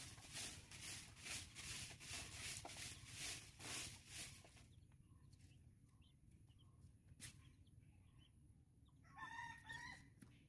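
Rhythmic scratching or rustling, about two strokes a second, stops after four or five seconds; near the end a single bird call of about a second, fowl-like.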